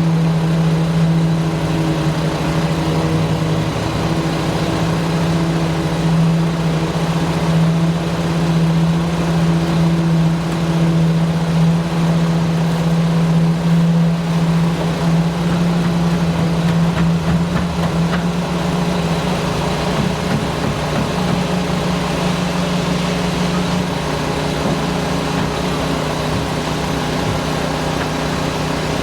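An engine running steadily at a constant speed with a low, even hum. Its pitch steps up slightly about two-thirds of the way through.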